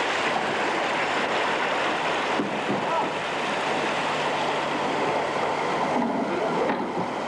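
Steady rushing of fast-flowing floodwater, an even roar with faint voices briefly in the background.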